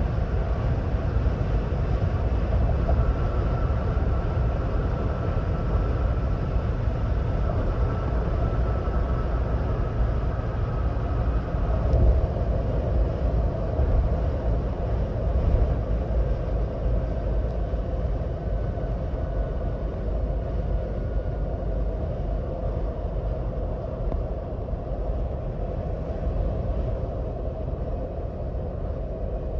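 Steady road and drive noise of a 2026 Ford Bronco Badlands cruising at highway speed: a continuous low rumble with a faint thin whine above it, and a couple of small bumps about halfway through.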